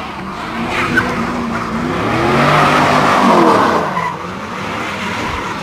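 Car engine revving hard, its pitch rising and falling, with tyres squealing and skidding in a burnout or drift. The squeal is loudest in the middle.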